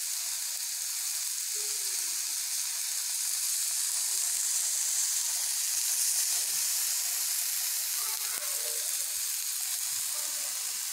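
Chicken tikka skewers (chicken, capsicum and onion pieces) sizzling in oil on a hot dosa tawa: a steady, even frying hiss.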